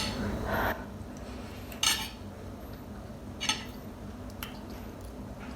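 A few short clinks of dishes and tableware during a meal, spaced a second or two apart.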